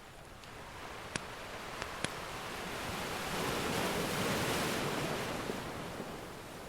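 Ocean surf: one wave swells up, breaks and washes back out. A few sharp crackles of a wood fire early on sit over it.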